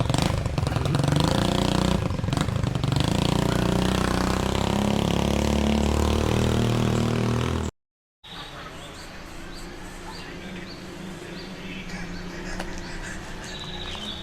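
A motor vehicle engine running steadily, its pitch shifting slowly, for about the first half. After an abrupt cut comes quieter outdoor ambience with a short high chirp repeating about once a second.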